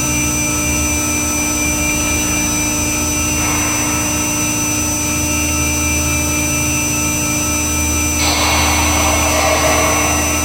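Stepcraft Q408 CNC router running, its spindle holding a steady speed with a constant high whine over a steady machine hum. A stretch of rushing noise joins in about three seconds in, and a louder one near the end.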